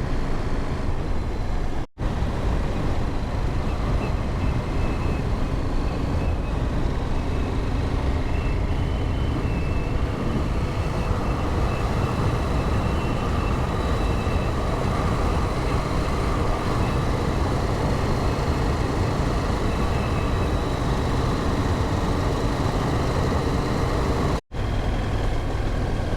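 Motorcycle riding on a loose gravel road: the engine runs steadily under wind and tyre noise. The sound drops out very briefly twice, about two seconds in and near the end.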